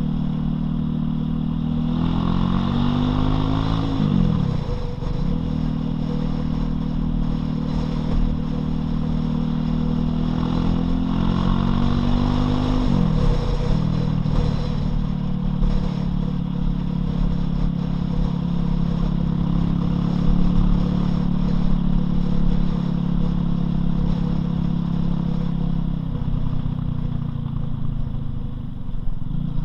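Loncin LX250-12C motorcycle engine running on the move. The revs climb twice and fall away sharply as the gears change, then the engine holds a steady cruising note.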